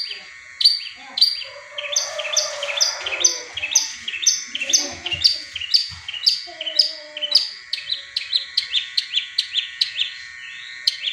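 Long-tailed shrike (cendet) singing a run of sharp repeated notes in imitation of the tengkek buto kingfisher's call. A few spaced notes speed up about two seconds in into a fast series of about three to four notes a second.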